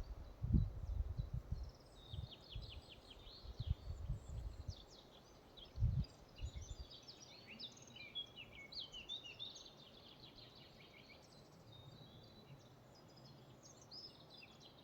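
Several songbirds singing short chirps and trills, thinning out after about ten seconds. Low, uneven thumps, loudest in the first few seconds, run under the song until about seven seconds in.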